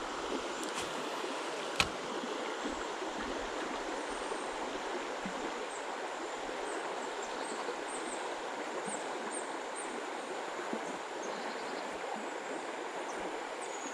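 Creek water running steadily, with a single sharp click about two seconds in and faint, short high chirps through the middle.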